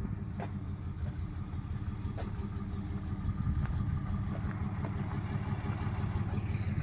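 Vehicle towing a loaded trailer on the road: a steady low engine and road rumble.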